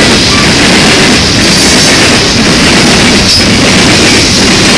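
Cars of a CSX coke train rolling past close by: a loud, steady rumble and rattle of steel wheels on the rails.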